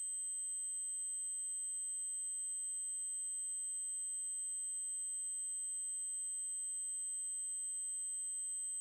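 Synthesised 8192 Hz triangle-wave test tone, a single high-pitched steady tone that holds at constant pitch and loudness.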